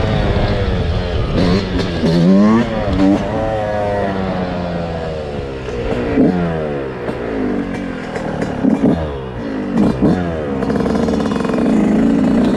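Motorcycle engine revving, its pitch rising and falling in repeated throttle blips, most strongly in the first half and again near the middle.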